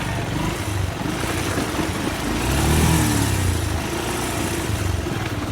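Motorcycle engine running, with a brief rev about halfway through that rises and then falls.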